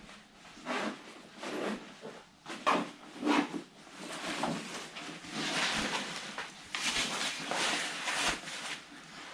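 Footsteps of a person walking, about one step a second, with a longer stretch of steady rushing noise in the middle.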